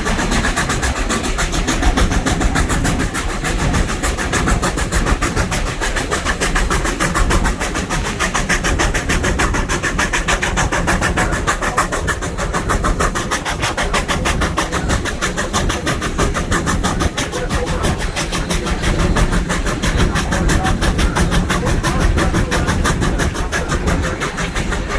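A vehicle running steadily, its noise carrying a fast, even pulsing.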